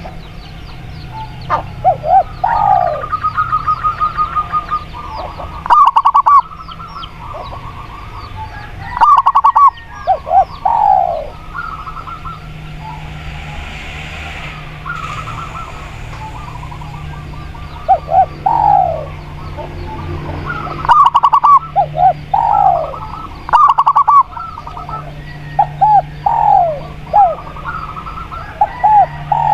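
Spotted dove and zebra dove cooing in repeated phrases, each a short run of falling notes. A quick rattling run of notes comes a couple of seconds in.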